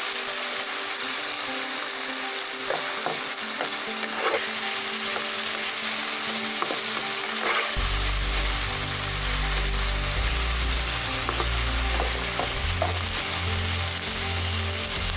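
Potatoes and vegetables sizzling in hot oil in a nonstick pan, with a spatula scraping and tapping against the pan every second or so as they are stirred. A low hum comes in about eight seconds in.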